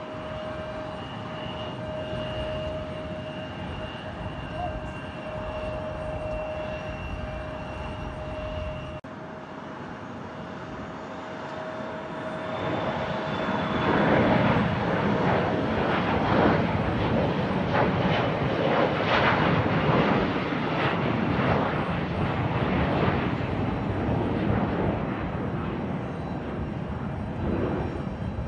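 Jet airliner engines running with a steady whine. After an abrupt cut, a jet passes close by: the engine noise builds to a loud rumble through the middle and eases off near the end.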